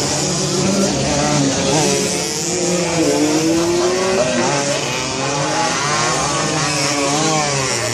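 Several racing motorcycle engines revving together, their pitches rising and falling and overlapping as the bikes work the circuit.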